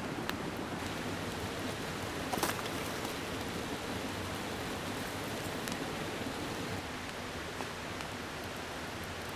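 Steady rushing of a mountain stream, with a few faint clicks and one louder short sharp noise about two and a half seconds in.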